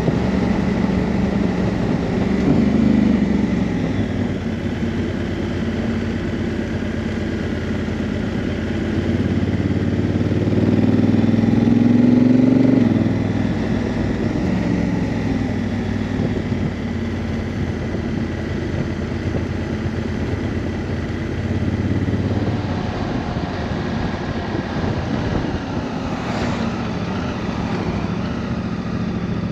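Honda CRF1000L Africa Twin's 998 cc parallel-twin engine running under way. Its note climbs under acceleration about three seconds in and again around ten to thirteen seconds, then drops at a gear change, over steady road and wind noise.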